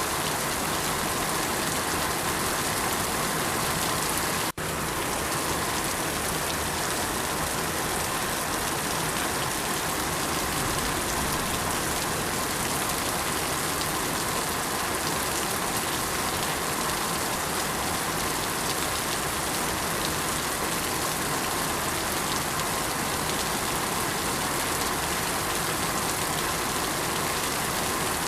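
Steady rain, an even dense hiss of falling drops, broken by a split-second gap in the sound about four and a half seconds in.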